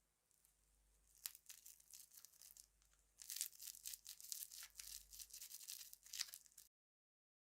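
Crinkling and tearing of what is most likely plastic packaging: sparse crackles begin about a second in and become a dense run from about three seconds in. The sound cuts off abruptly to dead silence near the end.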